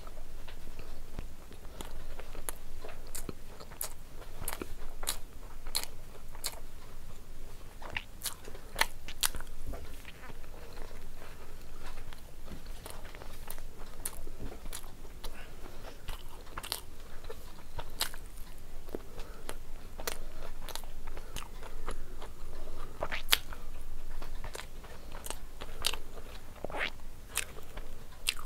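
A person chewing mouthfuls of pav bhaji, with frequent irregular sharp mouth clicks.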